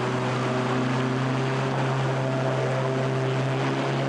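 An engine running steadily at an even pitch, a low hum with overtones that does not rise or fall.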